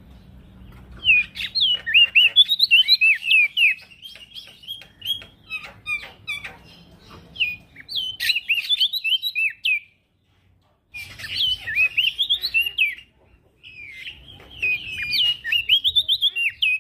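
A male prenjak daun singing a fast, chattering song of quick up-and-down whistled notes, in long runs broken by short pauses and a brief cut-out about two-thirds through.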